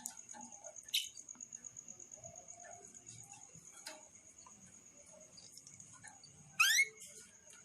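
A steady, high-pitched, finely pulsing trill runs throughout, with a few faint clicks. About six and a half seconds in comes a short, loud bird call of quickly rising notes.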